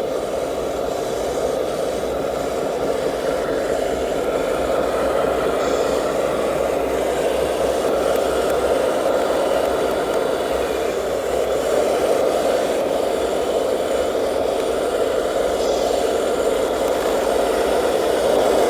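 A 1/14-scale radio-controlled truck's electric motor and gear drivetrain running steadily, with a rattling mechanical noise.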